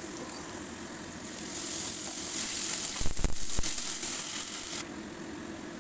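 Chopped onions and ginger-garlic paste sizzling in hot oil in a nonstick frying pan. The sizzle gets louder about one and a half seconds in as the mix is stirred with a wooden spatula, with a few soft knocks of the spatula in the middle. It drops off suddenly near the end.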